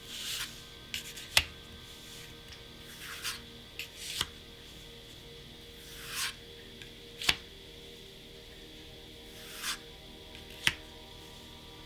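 Plastic card sleeves being handled: a soft swish followed about a second later by a sharp tap, repeated four times at roughly three-second intervals.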